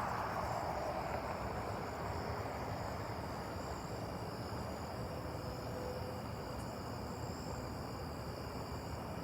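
Steady outdoor ambience with a faint, continuous chorus of crickets or other insects chirring.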